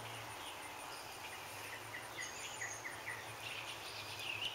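Outdoor ambience: a small bird gives a run of short chirps, about three a second, over a steady background hiss, with a faint, evenly pulsing high insect-like buzz throughout.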